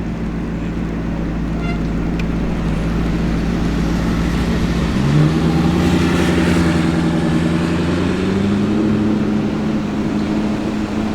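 Alfa Romeo 8C Spider's V8 engine and exhaust running at a steady note. About five seconds in, the pitch jumps up as the engine is revved or the car accelerates, then eases back to a steady, somewhat higher note.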